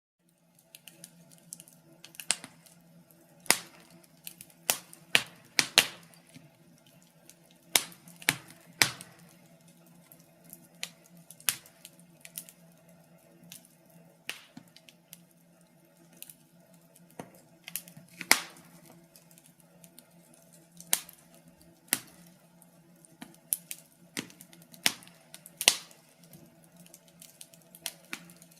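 Wood fire crackling in a fireplace: irregular sharp snaps and pops, a few of them loud, over a faint steady low hum.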